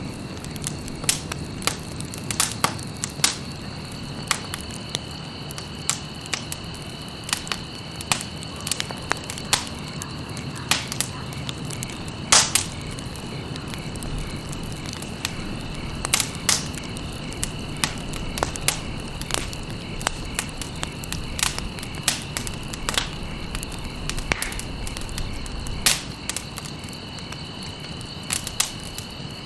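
Campfire crackling, with irregular sharp pops and snaps of burning wood, one louder pop about halfway through, over a soft steady hiss of the flames.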